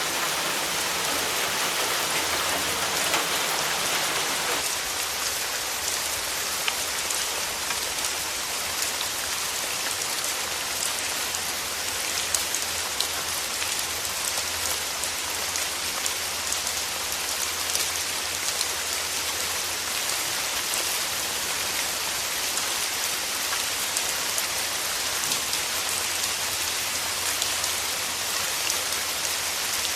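Steady rain falling and pattering on surfaces, a constant hiss with many small drop ticks.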